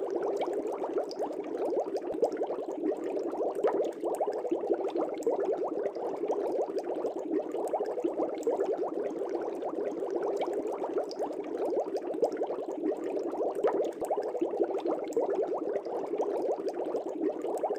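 Aquarium air bubbles rising and breaking at the water surface: a steady, dense bubbling and popping.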